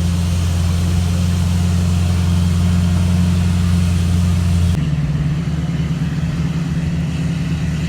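A motor vehicle's engine running steadily with a low, even hum. Its sound changes abruptly about five seconds in.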